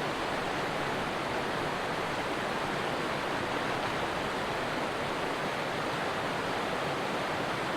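Stream water rushing steadily, a constant even hiss of flowing water.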